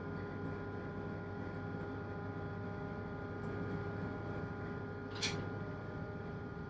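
Steady hum of a single-screw tugboat's 1000 PS diesel engine, heard from inside an enclosed space on board, with a few fixed tones over a low rumble. A single sharp click about five seconds in.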